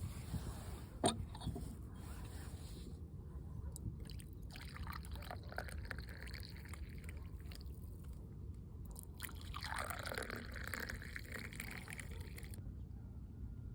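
Liquid being poured and trickling, with small handling clicks and a sharp click about a second in, over a steady low outdoor rumble.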